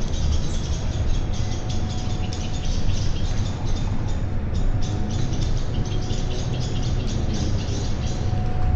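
Many birds chirping in quick, dense succession, short high calls overlapping one after another, over a steady low rumble in the background.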